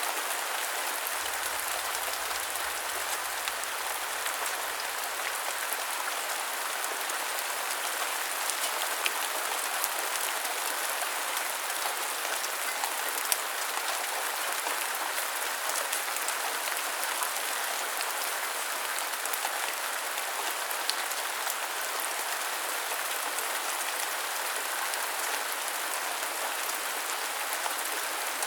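Steady rain hiss, even and unbroken, with scattered drop ticks now and then.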